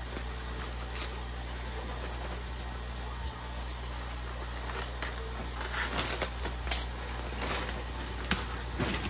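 Items being unpacked and handled, likely model train pieces and track: scattered light clicks and rustling, busiest about two-thirds of the way through, over a steady low hum.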